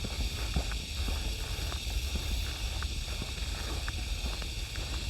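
Footsteps on a trail, soft irregular steps, over a low rumble of wind on the microphone and a steady high hiss.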